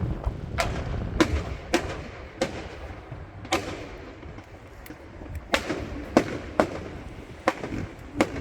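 Fireworks display going off: a string of about ten sharp bangs and cracks, some well under a second apart, over a low rumble.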